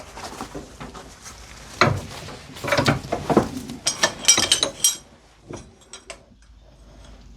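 Steel tools knocking and clinking together while work goes on to free a rust-seized G-clamp. There are a few knocks about two seconds in, then a busy run of clanks with bright ringing clinks near the middle, and a few lighter clicks after that.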